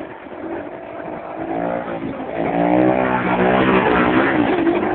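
Motorcycle engine accelerating hard, its pitch climbing about a second and a half in and holding high and loud before easing off near the end.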